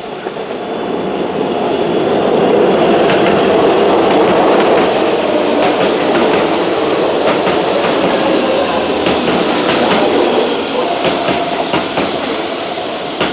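Keihan electric train running into the station and slowing: steady running noise from the wheels and motors that builds early, then eases after about ten seconds, with clacks of wheels over rail joints in the later seconds.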